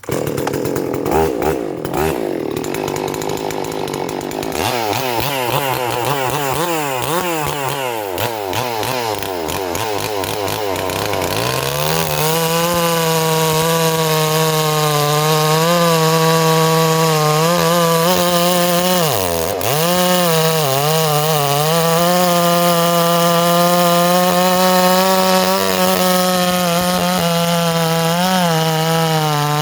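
Stihl MS440 clone two-stroke chainsaw running. It starts out uneven and wavering at lower revs, then from about twelve seconds in it holds a steady high-revving note, with a brief dip near twenty seconds in, as it is run through wood.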